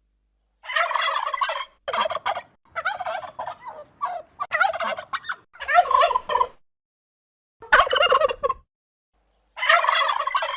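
Turkey gobbling: a series of about seven or eight gobbles, each lasting up to about a second, separated by brief silent gaps.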